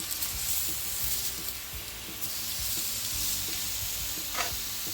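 Marinated beef short ribs sizzling steadily on a hot skillet.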